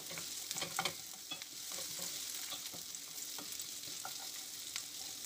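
Sliced onions frying in hot oil in a frying pan, sizzling steadily, with scattered scrapes and taps of a wooden spatula stirring them.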